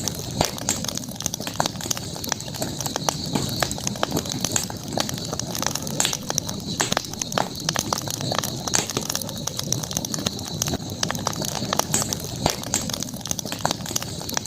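Campfire crackling, with irregular sharp pops and snaps from the burning wood, over a steady high-pitched hiss of night ambience.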